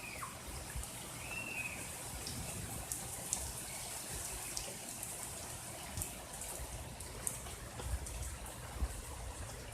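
Heavy rain falling, with water running and scattered drops ticking close by.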